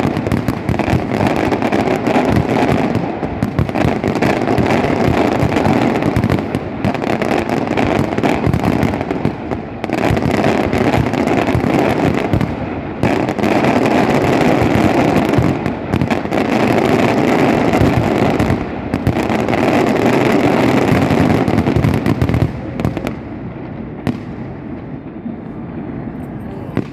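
Fireworks going off in a rapid, unbroken barrage: a dense stream of bangs and crackling firecrackers, dying away about 23 seconds in.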